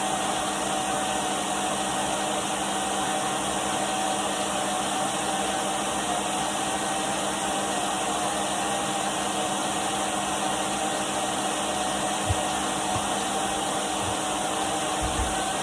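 Henry cylinder vacuum cleaner running steadily, its motor giving a constant mid-pitched whine over the rush of air. A few faint low knocks come in the last few seconds.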